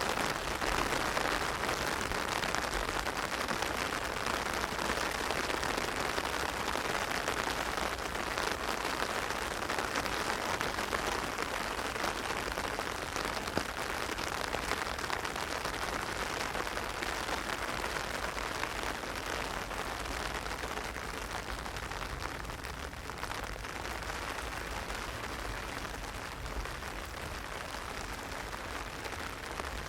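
Heavy rain striking an umbrella: a dense, steady hiss of drops that grows slightly quieter toward the end.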